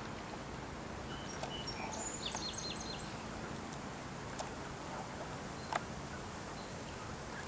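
Outdoor riverbank ambience: steady background noise with a low hum, and a small bird chirping a quick run of short high notes in the first half. A few faint sharp clicks, the clearest about three quarters of the way through.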